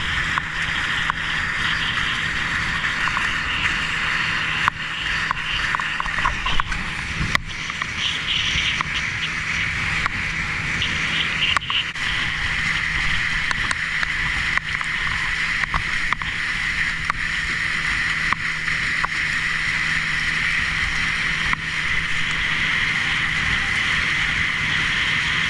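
A boat's 70-horsepower outboard motor running steadily at speed, with a constant hum under the rush of water and wind.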